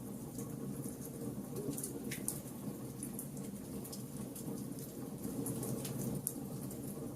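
Wood fire burning, a steady low rumble of flames with frequent small crackles and pops of the burning wood.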